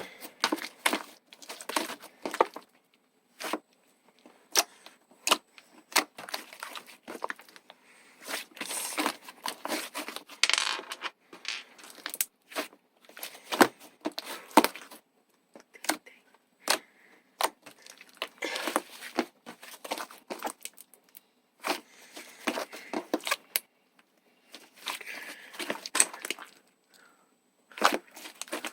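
Slime being squished and stretched by hand: an irregular run of sticky pops, clicks and crackles, with short pauses between handfuls.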